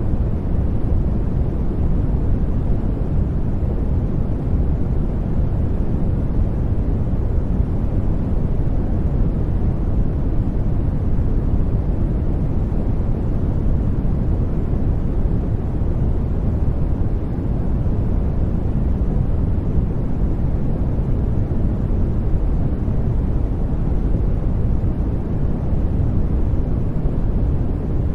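Steady sleep noise, deep and muffled, with most of its weight in the bass and little treble, running on without any change.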